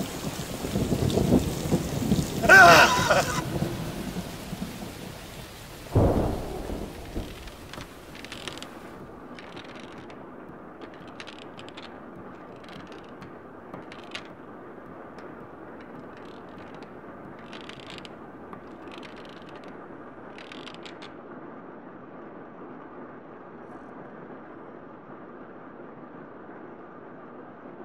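Heavy rain with a loud thunderclap a couple of seconds in and another sudden loud crash about six seconds in. The sound then drops to a faint steady hiss with scattered soft high ticks.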